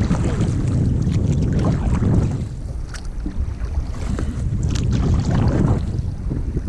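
Wind buffeting the microphone on a moving kayak, a steady low rumble, with a few short splashes of paddle blades dipping into the water.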